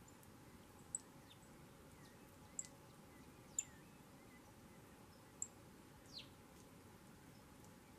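Small birds giving short, high-pitched chirps every second or two, several with a quick falling note, over faint steady background hiss.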